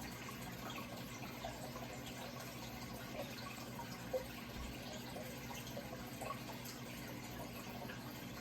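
Gently running water, trickling with small drip-like plinks over a steady low hum, and one slightly louder plop about four seconds in.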